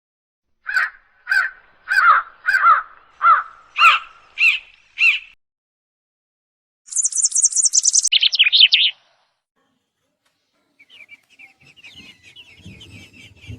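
A crow cawing about eight times in a steady series, roughly one call every half second. Then a different bird gives a high, fast trill that steps down in pitch, and faint bird chattering comes in near the end.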